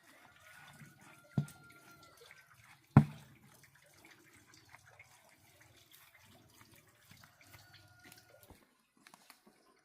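Two sharp knocks about a second and a half apart, the second louder, over faint splashing or dripping and light scattered clicks.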